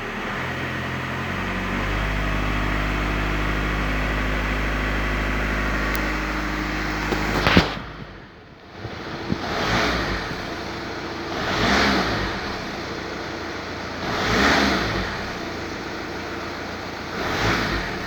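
Car engine running steadily at raised revs with a fixed hum, then a sharp crack about halfway through, followed by four separate revs a couple of seconds apart.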